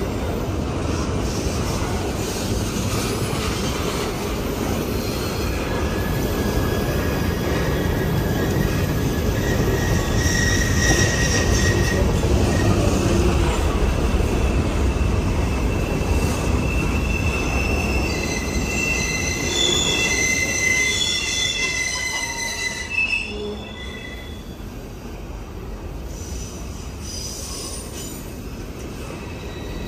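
Empty grain cars of a freight train rolling past: a steady rumble of wheels on rail, with high-pitched wheel squeal coming and going. The sound eases somewhat about three-quarters of the way through.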